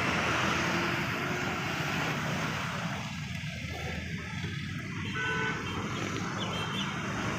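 Steady motor vehicle noise, with a few faint short tones near the end.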